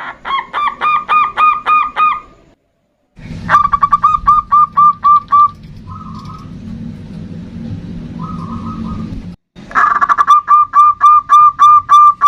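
Zebra dove (perkutut) calling: three runs of rapid, evenly spaced cooing notes, about five a second, with short breaks between them and two brief fainter phrases in the middle.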